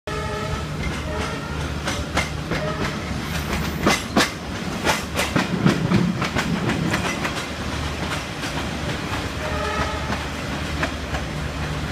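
Reunification Express passenger train running on the rails as it comes into a station: a steady low rumble, with a run of sharp wheel clacks and knocks from about two to six seconds in and a faint higher tone at the start and again near the end.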